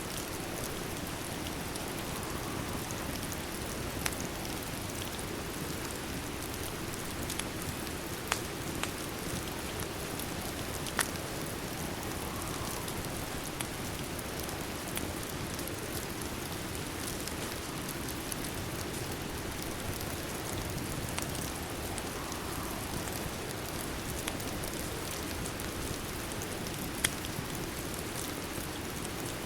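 Steady rain falling, with a few sharp pops from a crackling wood fire standing out now and then.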